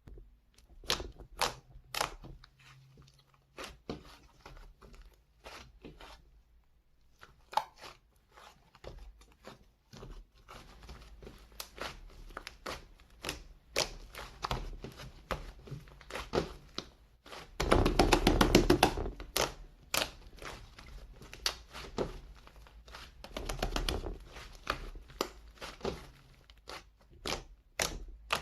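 Clay slime being squished, stretched and pressed by hand: scattered sticky clicks and pops, with a loud run of rapid clicking about eighteen seconds in.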